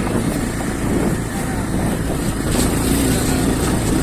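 Motorcycle engine running steadily while riding, a continuous low rumble, with a steadier engine note coming through about halfway in.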